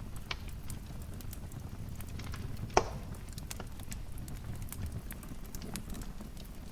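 Wood fire crackling with a steady low rumble and scattered small crackles, and one loud sharp pop a little under three seconds in.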